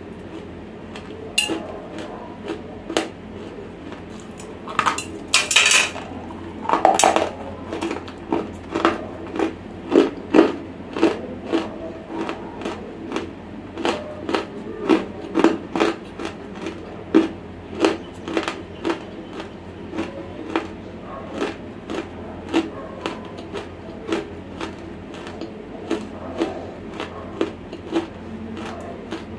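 Dry, close-miked crunching and chewing of a semi-roasted chalky lump, in sharp bites about twice a second, with a louder burst about five to seven seconds in.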